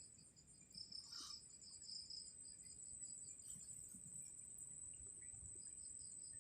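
Crickets chirping: one steady, high, fast-pulsing trill with a second, lower pulsing chirp alongside it, and one brief brighter sound about a second in.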